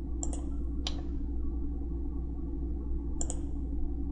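Computer mouse clicks: a quick double click, a single click, then another double click about two seconds later, over a steady low electrical hum.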